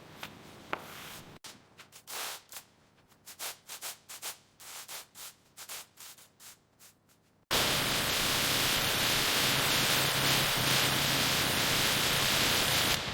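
Short, irregular rubbing strokes on a surface, then a loud, steady spraying hiss that starts suddenly about halfway through and runs until near the end.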